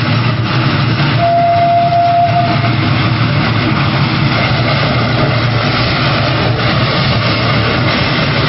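Steam locomotive running with a steady, loud rumble. Its whistle sounds one clear note about a second in, lasting about a second and a half.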